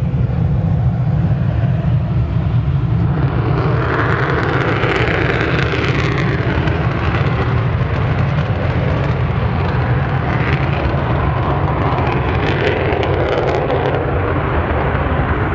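F-15 fighter's twin turbofan engines running up on the ground during final pre-takeoff checks: a steady, loud low rumble, with a higher jet hiss that builds about three to four seconds in and holds.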